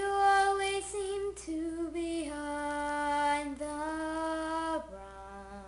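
A young girl singing unaccompanied, long held notes stepping down in pitch, turning softer about five seconds in.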